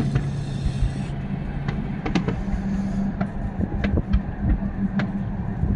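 Fireworks going off: scattered sharp pops and bangs over a continuous low rumble, with a steady low hum running underneath.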